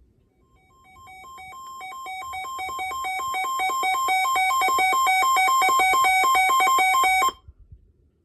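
Electronic weather alert tone, rapidly alternating between two pitches, growing steadily louder for about six seconds and then cutting off abruptly. It announces a new severe thunderstorm warning.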